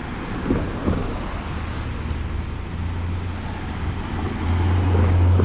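Road traffic: a car engine's low hum that grows louder near the end as a vehicle comes closer.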